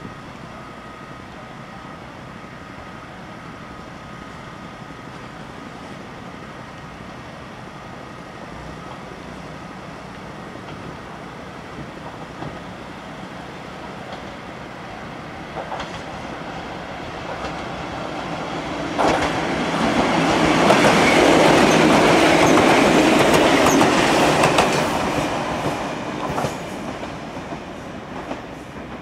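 Ichibata Electric Railway 3000 series electric train approaching and passing close by. It grows louder over several seconds, jumps up about nineteen seconds in, is loudest for about five seconds with a few sharp clicks, then fades near the end.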